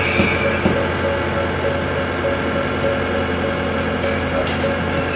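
Tobu 300 series electric train creeping into the platform at low speed, its running gear giving a steady hum with several held tones. A short high squeal of wheels or brakes sounds right at the start.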